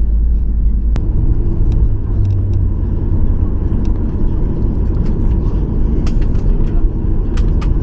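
Boeing 737-800 cabin noise: a loud, steady low rumble with scattered rattles and clicks. A sharp click comes about a second in, as the rumble shifts in pitch.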